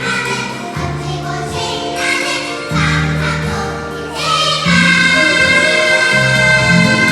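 Children's choir singing over an instrumental accompaniment. The voices hold long notes and swell louder about four seconds in.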